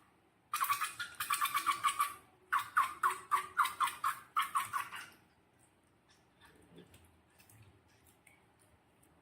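Rubber balloon squeaking as it is rubbed and handled: three bursts of rapid, stuttering squeaks over the first five seconds, followed by faint handling clicks.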